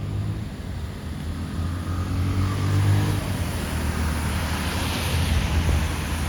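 Road traffic on a rain-wet road: a steady low engine hum with tyre hiss that swells and fades as a vehicle passes in the latter half.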